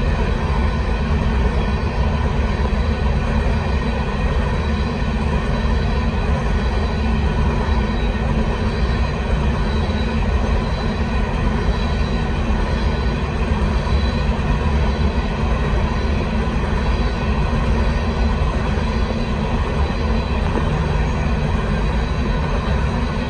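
Covered hopper cars of a Union Pacific freight grain train rolling past at a grade crossing: a steady, unbroken rumble of wheels on the rails, with thin steady high tones over it.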